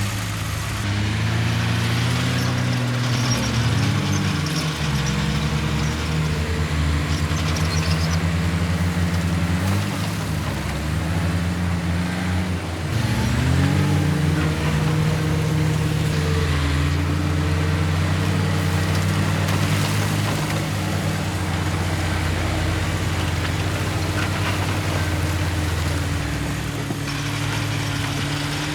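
Heavy diesel engine of earthmoving machinery running hard, its pitch dipping and climbing again several times as the throttle and load change.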